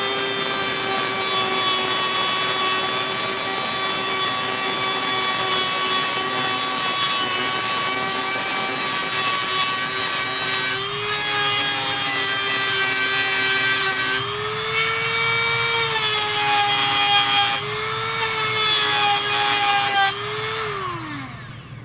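Dremel rotary tool running with a loud, steady high whine while it grinds the heads off old tacks holding a basket's leather hinge. Its pitch shifts a few times as the load on it changes, and it winds down with a falling pitch near the end.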